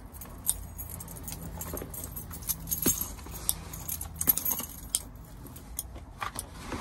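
Keys jangling, with many small clicks and rattles of things being handled, over a low steady hum.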